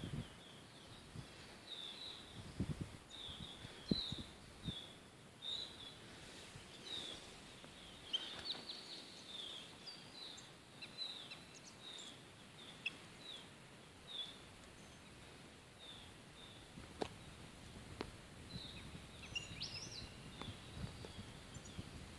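Bird giving short, high chirps over and over, one or two a second, over a faint outdoor hiss; two sharp clicks come about two-thirds of the way through.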